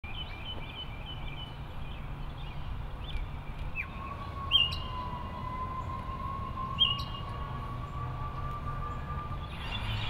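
Birds chirping: short high calls repeated over and over, with two louder chirps at about four and a half and just under seven seconds. A steady low hum of background noise runs underneath, and a long, faint, steady tone sounds from about four seconds in until near the end.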